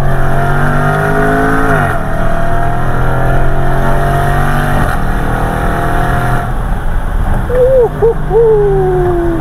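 Supercharged 5.0-litre V8 of a Range Rover SVR accelerating hard, heard from inside the cabin, its exhaust note echoing off a roadside wall. The pitch climbs, drops sharply about two seconds in at an upshift, then climbs again until the throttle eases about six seconds in. Near the end a higher wavering tone bends and slides down.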